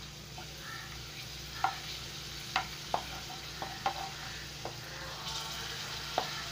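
Appalam (papads) frying in hot oil in a nonstick kadai: a steady sizzle, with about seven sharp clicks as a slotted spatula turns them in the pan.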